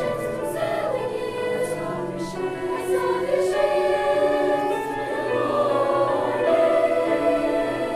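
A school choir singing, holding long sustained chords.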